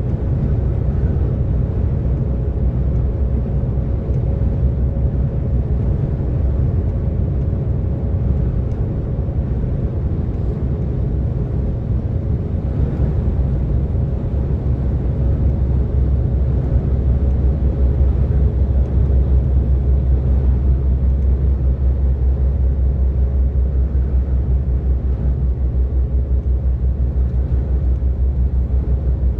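DAF XF 460 truck cruising on the motorway: a steady low diesel drone with road rumble, growing slightly louder about halfway through.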